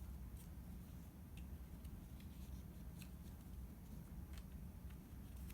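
Paper being handled while folding and gluing a paper ornament: faint scattered rustles and small clicks over a steady low hum.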